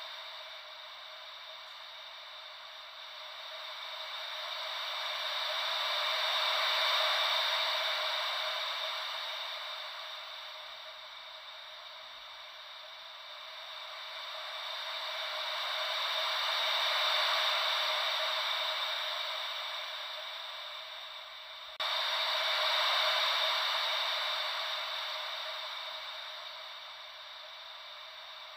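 Gentle ocean-wave white noise: a thin hiss with no low rumble that swells and fades slowly, about every ten seconds. A little past twenty seconds the level steps up suddenly.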